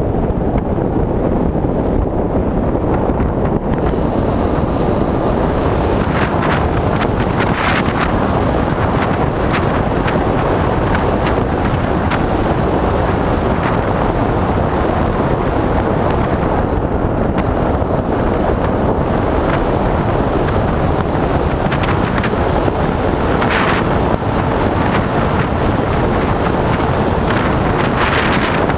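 Loud, steady wind rush over the onboard camera of an AXN Floater FPV radio-controlled plane in flight, with a few brief hissing gusts.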